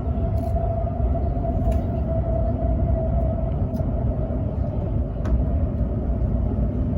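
Hokuriku Shinkansen train running at speed, heard inside the passenger cabin. A steady low rumble carries a constant whine over it, with a few faint clicks.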